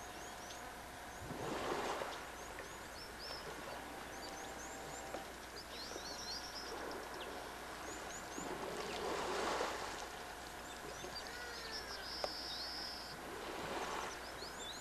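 Many birds chirping in quick, short, rising calls over a steady outdoor background, with three swells of rushing noise, each about a second long, coming about two, nine and fourteen seconds in.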